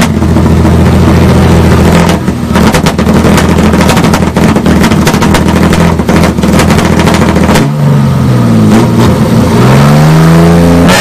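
Car engines revved hard through loud aftermarket exhausts, with rapid popping and crackling. From about eight seconds in, an engine is blipped so that its pitch rises and falls several times.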